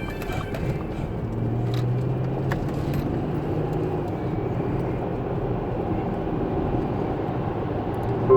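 Steady rumble of a car, with a low hum for about two seconds starting a second in and a few faint clicks.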